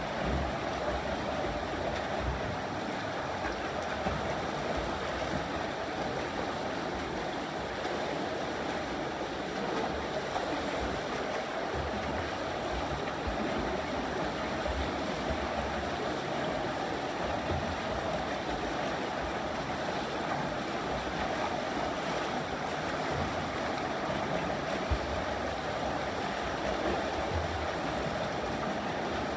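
Steady splashing, rushing water noise from swimmers in open water, with wind on the microphone rumbling unevenly underneath.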